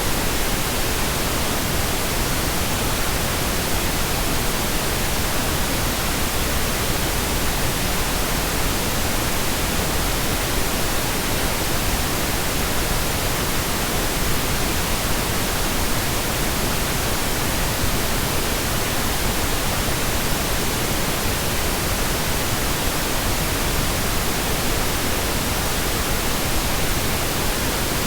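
Steady pink noise: an even, unchanging hiss across all pitches, softer in the highs than white noise.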